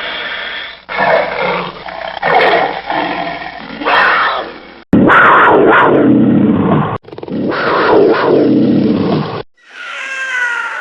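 Big cats roaring and growling: a string of separate loud calls from several short recordings cut one after another.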